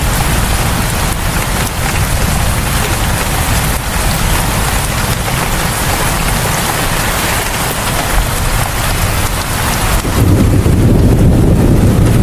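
Rain falling steadily, a dense even hiss over a deep low rumble. About ten seconds in, the low rumble swells louder and the higher hiss thins.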